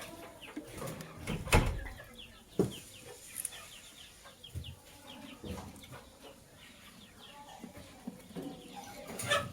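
Lovebirds chirping in many short, quick calls, with a few sharp knocks among them, the loudest about a second and a half in.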